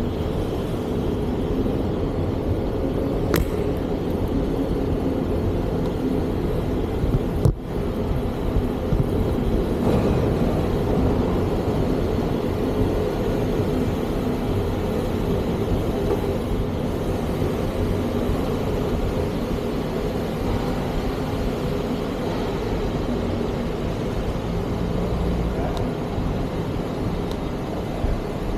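Steady rumble of motor vehicles and traffic, with a brief dropout about seven and a half seconds in.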